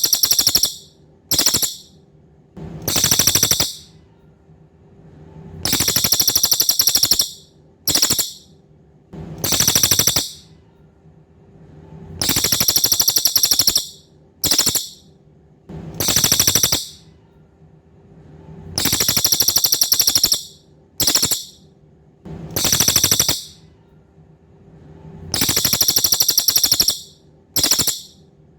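Cililin songbird singing a high, very rapid trilled call in a fixed repeating phrase: a long trill of about two seconds, a short burst, another long trill, then a pause, the whole phrase coming round about every six and a half seconds as in a looped training recording. A faint steady hum lies underneath.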